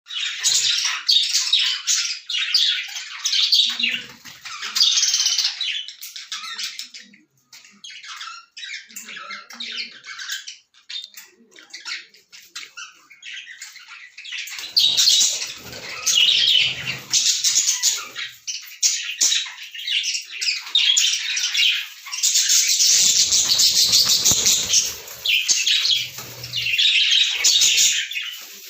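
Lovebirds chattering with rapid, shrill chirps and squawks, thinning out for several seconds after about the first quarter, then dense and loud again through the second half.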